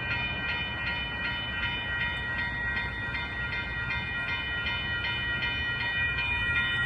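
Railroad crossing bell ringing steadily at about three strikes a second, over the low rumble of a train going through the crossing.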